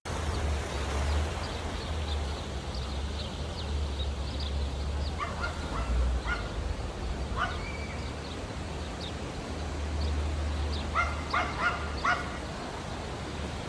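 Short, sharp animal calls over a steady low rumble and outdoor background noise. A few calls come singly through the middle, then a quick run of about five near the end.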